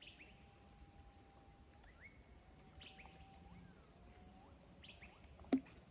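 Wild birds calling faintly: three long, steady whistled notes, each ending in a quick upward flick, with short high chirps between them. A single sharp knock sounds near the end.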